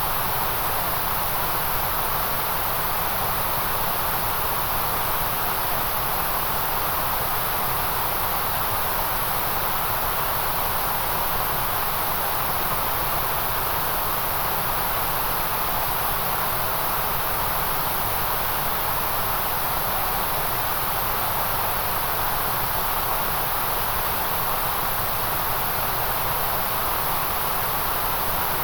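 Steady white-noise hiss, unchanging throughout, with no pitch, rhythm or separate events.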